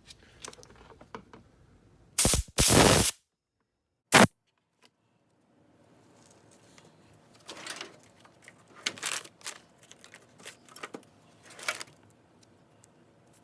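Short, loud hissing spray blasts, twice in quick succession and once more a second later, cleaning out a Tecumseh carburetor's bowl nut and pickup jet, which are gummed up. Small clicks and knocks of the parts being handled follow.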